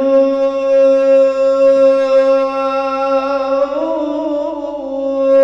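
A man's voice chanting a mournful Shia elegy, holding one long note, then wavering in a melismatic ornament near the end before settling back on the note.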